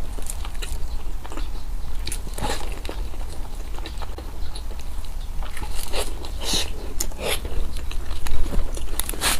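Close-miked eating: a person biting and chewing food, with irregular crunches and wet clicks, over a steady low hum.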